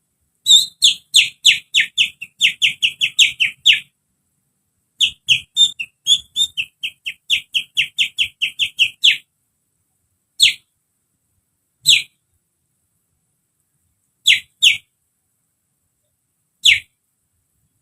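A human imitation of a sooty-headed bulbul (kutilang) call, whistled with the fingers. There are two fast runs of short whistle notes, each sliding downward, then single notes spaced a second or two apart, one of them a quick pair.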